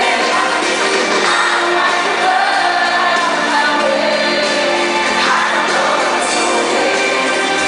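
Live pop song performance: a band playing with singing over it, with shouts from the crowd.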